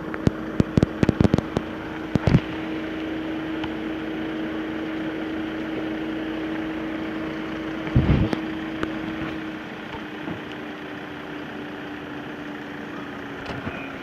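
A steady mechanical hum, like an engine idling, that drops a little lower and quieter about nine seconds in, with a run of sharp clicks in the first two seconds and a knock about eight seconds in.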